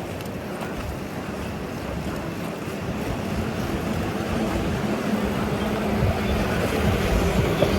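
Wind rushing over the microphone of a camera on a moving bicycle, with city traffic under it. A steady engine hum from a nearby vehicle grows louder in the second half.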